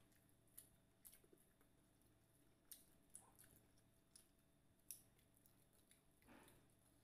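Faint eating sounds: scattered soft clicks and wet mouth smacks of chewing fried chicken and rice, with a slightly longer, fuller mouth sound about six seconds in.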